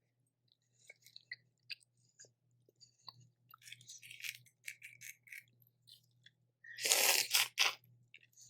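Close-miked eating of a seafood boil: chewing with small wet clicks and crackles, then a louder run of three quick crunching or slurping bursts about seven seconds in.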